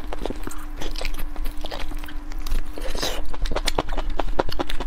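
Close-miked biting and chewing of roasted lamb tripe stuffed with brain, with many sharp, wet mouth clicks and smacks, over a faint steady hum.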